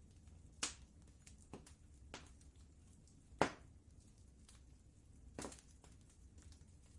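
Wood fire crackling in a fireplace: scattered faint ticks and three louder sharp pops, the loudest about halfway, over a low steady rumble.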